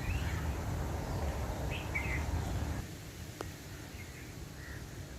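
Birds chirping in short, scattered calls over a steady low rumble of wind noise. The rumble cuts off abruptly a little over halfway through, and a single sharp click follows shortly after.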